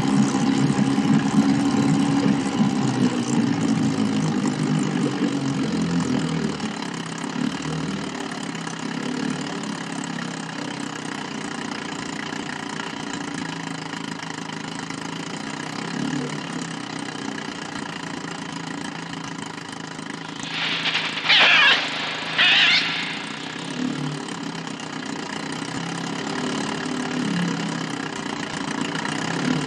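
A small motorboat's engine running steadily, loud at first and then lower. About 21 seconds in come two loud, sharp gull screeches a second apart as the gull dives; the film's bird cries were made electronically.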